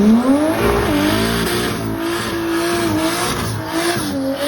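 Race car engine accelerating hard on a drag strip: its note climbs steeply in the first half second, then holds high with a few brief dips.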